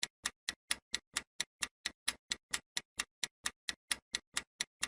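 Clock-tick countdown sound effect: sharp, even ticks about four to five a second, timing the answer pause.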